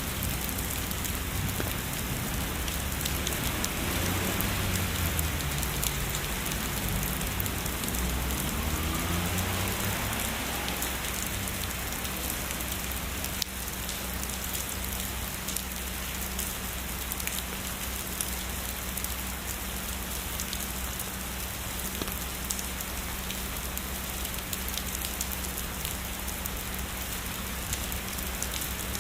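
Steady heavy rainfall, an even hiss of raindrops on a surface. A low rumble of distant thunder dies away in the first ten seconds or so, leaving the rain alone.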